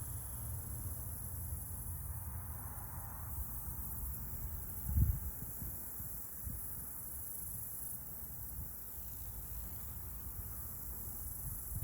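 Outdoor ambience: a steady high insect chirring, with low rumble on the microphone. One low thump comes about five seconds in.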